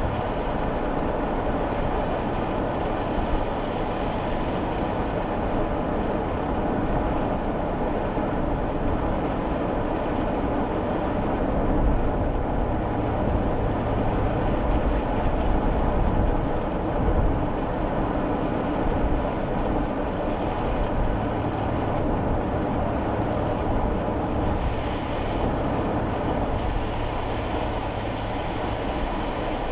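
Steady road and engine noise inside a moving kei car's cabin: a continuous low rumble of tyres and engine drone.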